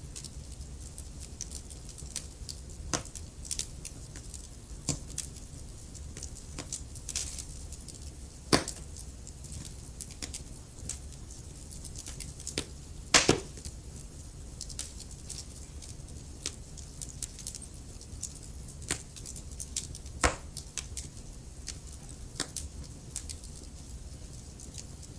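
Wood fire crackling: irregular sharp pops and snaps from the burning logs over a low steady rumble, with a few louder pops, two of them standing out about a third and halfway through.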